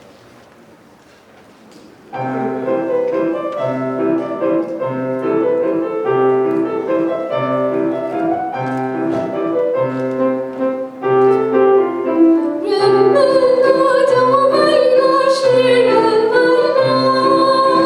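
A piano accompaniment starts about two seconds in, with a steady repeating bass pattern. Near the end a classical-style singer comes in over it with a wavering, vibrato-laden line.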